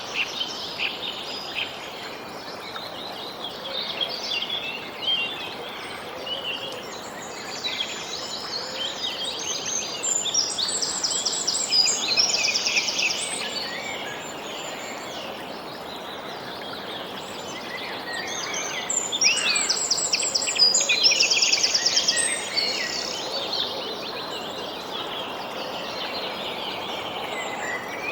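Small songbirds chirping and trilling over a steady soft outdoor hiss, with two busier stretches of rapid trills, about a third of the way in and again past two-thirds.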